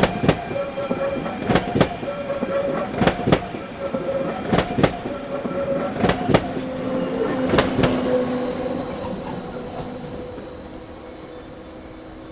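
A train rolling slowly past, its wheels clicking over a rail joint in pairs about every second and a half, with a steady whine. The clicking stops after about eight seconds and the sound fades away.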